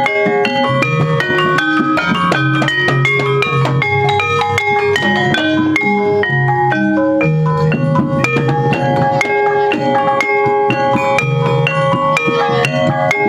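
Javanese gamelan ensemble playing: bronze metallophones struck in a steady, dense stream of ringing notes over low sustained tones.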